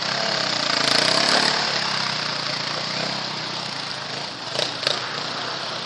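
Motocross bike engines running and revving on the track, swelling to their loudest about a second in. Two short sharp knocks come near the end.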